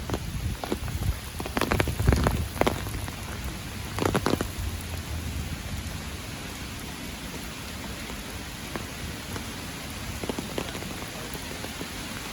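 Light rain falling steadily, with many separate drops striking close by. A few louder thumps with a low rumble stand out in the first four seconds.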